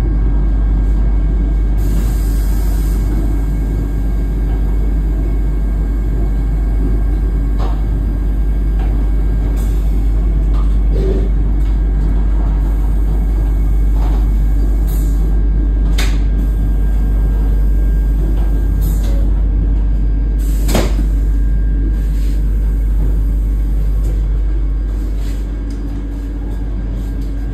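Vande Bharat Express train running, heard from inside the coach: a steady low rumble with a faint steady whine, broken by a few sharp clicks and knocks, the loudest about 21 seconds in.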